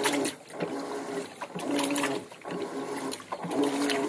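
Electrolux LM 08 top-loading washing machine agitating a full load: the motor hums in repeated strokes with short pauses between, over water sloshing in the tub.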